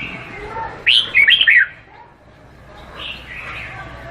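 Red-whiskered bulbul singing: a loud, quick phrase of short descending whistled notes about a second in, followed by softer warbling notes.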